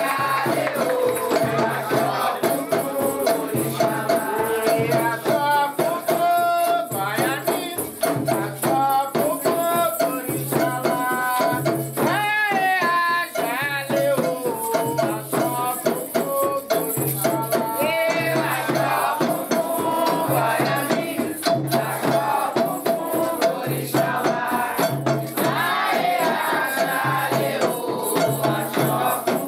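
Candomblé ritual music for Xangô: singing over a constantly shaken rattle and a steady low beat.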